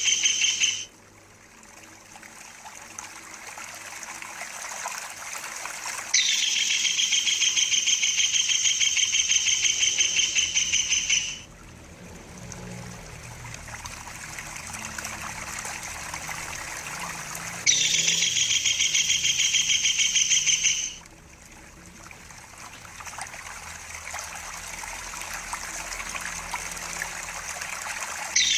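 Kingfisher giving a long, rapid, high-pitched rolling trill in bouts of several seconds, repeated at regular intervals: the tail of one bout at the start, full bouts about 6 and 18 seconds in, and another starting at the very end. Between bouts, water trickles softly.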